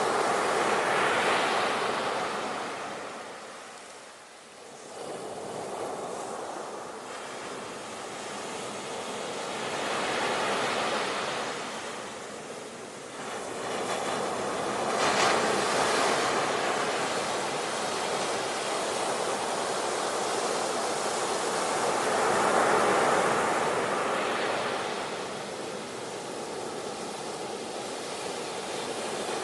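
Ocean surf: waves breaking and washing in, swelling and fading every several seconds, with a sharper crash about halfway through.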